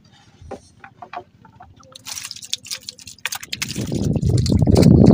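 Water splashing and dripping with scattered small knocks, building about halfway through into a loud, churning splash that is loudest near the end.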